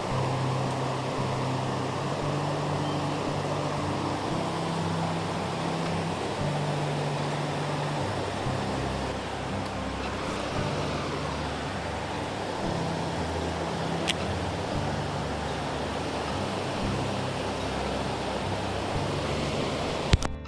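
Steady rush of creek water under background music with a slow, stepping bass line. A brief sharp knock comes just before the end.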